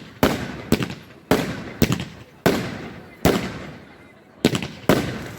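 Fireworks going off: a run of about nine sharp bangs at uneven half-second to one-second gaps, each trailing off in a crackling, echoing decay.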